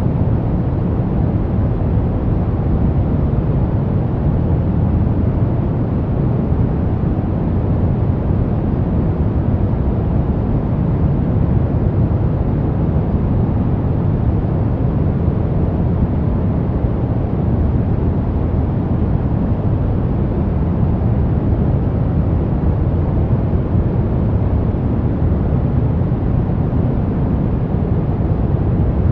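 Steady pink noise: an even, unchanging hiss weighted toward the low end, played continuously as a study background.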